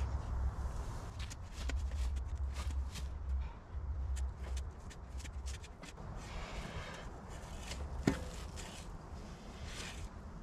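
Footsteps and scuffing on gravelly, sandy ground, with a single sharp knock about eight seconds in.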